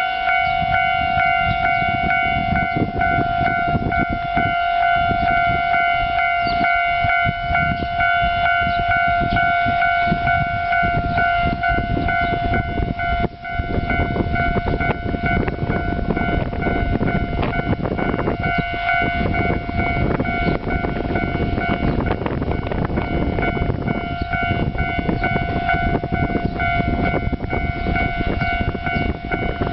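A Japanese railway level-crossing alarm sounds a steady electronic warning tone. Under it is a low rumble that grows from about halfway through as a KiHa 147 diesel railcar approaches the station.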